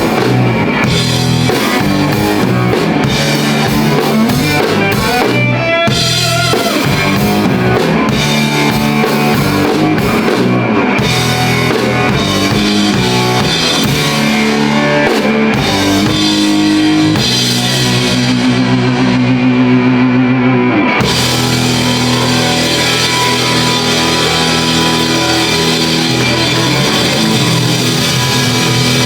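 Live rock band playing loudly, with electric guitar, bass and drum kit. About two-thirds of the way through, the drums drop out for a few seconds under a held chord, then the full band comes back in.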